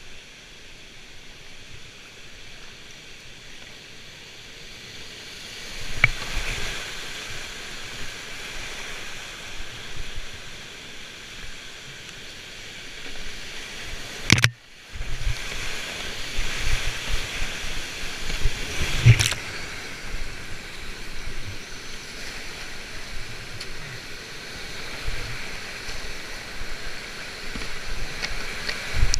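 Rushing whitewater of a river and waterfalls, a steady hiss, broken by three sharp knocks. The sound cuts out for a moment just after the second knock.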